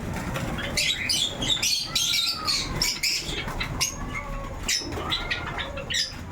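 Caged Java sparrows chirping together, a steady run of short high calls, with a few lower arching calls rising and falling about two, four and five seconds in.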